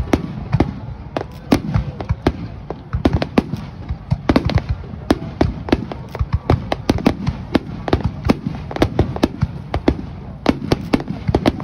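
Aerial fireworks going off in a rapid barrage: many sharp bangs and cracks in quick succession, several a second, over a continuous low rumble from the bursts.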